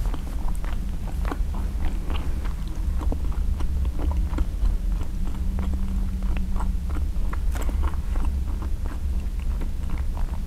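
Close-up chewing of a bagel breakfast sandwich: wet mouth clicks and smacks at an irregular pace, over a steady low hum.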